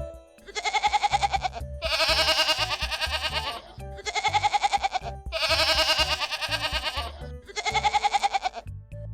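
A domestic goat bleating five times in a row. Each bleat is a long, quavering cry, with short pauses between them. Quiz background music with a low beat runs underneath.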